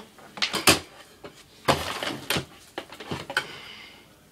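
Handling noise of fallen 45 rpm vinyl records being gathered up: a few sharp taps about half a second in, a longer scraping rustle around two seconds, and another tap a little after three seconds.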